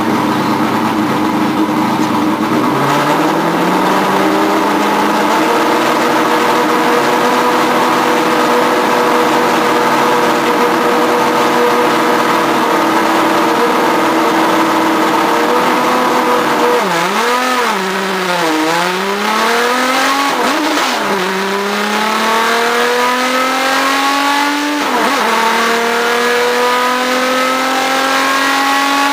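Race car engine heard from the onboard camera in the cockpit, rising in pitch as the car pulls away from the start, then running steadily at high revs. About two-thirds of the way through, the pitch drops and jumps back several times in quick succession as the driver brakes and shifts down, then it climbs steadily again under acceleration.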